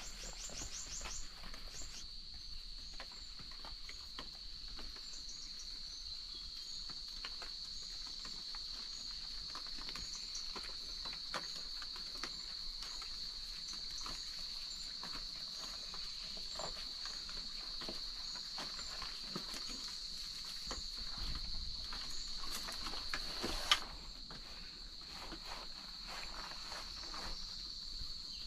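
Insects trilling steadily at one high pitch, with irregular light clicks and rustles of movement over it and one sharper knock near the end.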